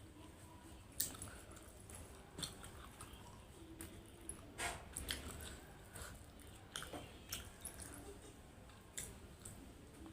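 A person chewing and biting food close to the microphone: irregular soft mouth clicks and smacks, a few louder ones about a second in and around the middle.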